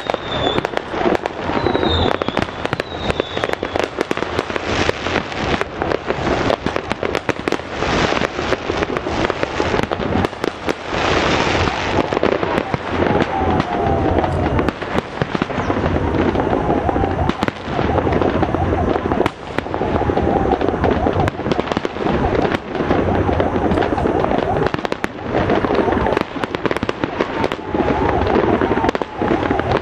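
Fireworks display: a dense, unbroken run of bangs and crackling shells. Now and then a whistle falls in pitch, and about eleven seconds in there is a louder hissing burst.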